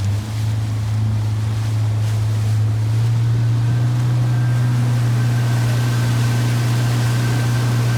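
A motorboat's engine runs steadily, its revs rising slightly about three seconds in, over wind and water noise.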